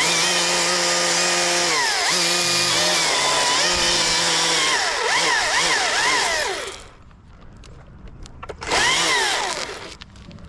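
Chainsaw running at high revs, its pitch dipping and recovering, then revved up and down several times before it drops off about seven seconds in. A second short burst of revving comes near the end.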